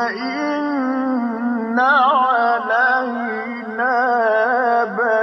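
A voice reciting Quran in a melodic style, drawing out a long held note with wavering, ornamented turns in pitch and no distinct words.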